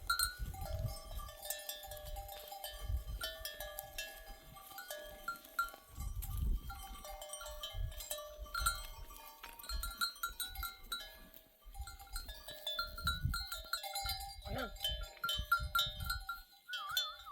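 A flock of sheep and goats bleating over one another, many calls overlapping and wavering in pitch, with herd bells clinking among them.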